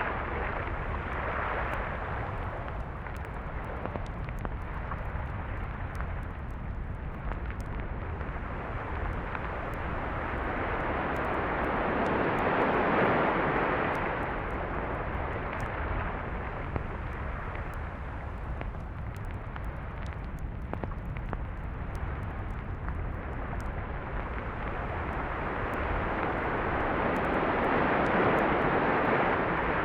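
Ocean surf on a beach: a steady low rumble with waves that swell and wash in, loudest about 13 seconds in and again near the end.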